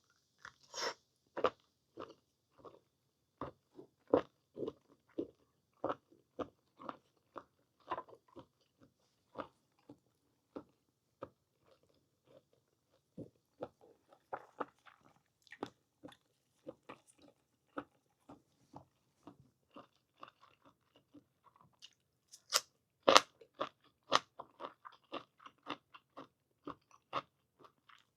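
Close-up mouth sounds of chewing and biting blanched squid: irregular wet smacks and clicks, with a louder, quicker flurry of bites a little over three quarters of the way through.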